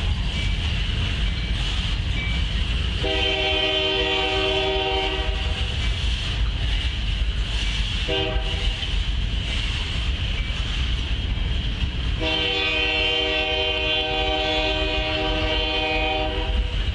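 Freight train of refrigerated boxcars rolling past with a steady low rumble. A locomotive horn sounds over it three times: a long blast about three seconds in, a short one about eight seconds in, and a longer one from about twelve to sixteen seconds in.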